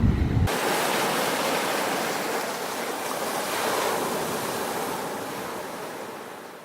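Sea surf washing onto a beach, a steady rush of waves that slowly fades out near the end. A low rumble cuts off about half a second in.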